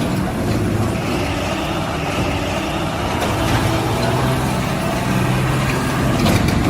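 A truck or tractor engine running steadily with a low, even hum.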